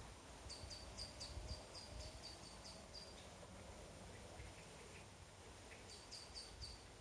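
A small bird singing a series of quick, high, down-slurred notes, about four a second, then a shorter run of the same notes near the end. A faint low rumble sits underneath.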